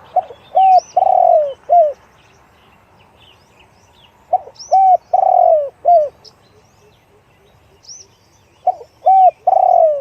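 Spotted dove cooing. It calls three phrases, each a quick run of short low coos with one longer drawn-out coo near the end, repeated about every four seconds. Small birds chirp faintly in the background.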